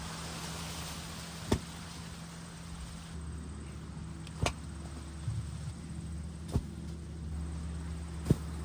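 Tractor engine running steadily at low speed, with four sharp knocks spaced a couple of seconds apart.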